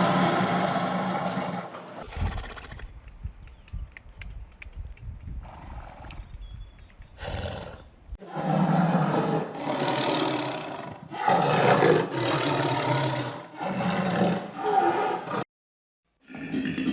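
An animal calling loudly in a run of separate calls, each a second or two long, after several seconds of low rumbling. The calls stop suddenly near the end with a moment of dead silence before a different sound begins.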